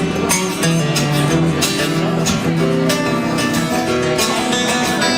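Live band music without singing: guitars strumming and picking over sustained low notes, with a steady beat.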